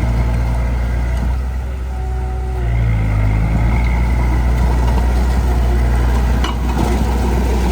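Heavy earthmoving machine's diesel engine running steadily under load. Its level dips briefly and its pitch shifts up about three seconds in.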